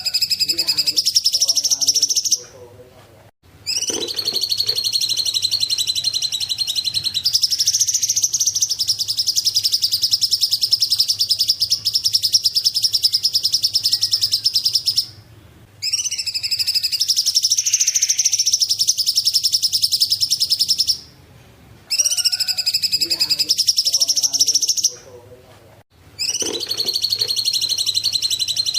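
Cungkok songbird singing long, continuous runs of rapid high notes, broken by short pauses about three, fifteen, twenty-one and twenty-five seconds in.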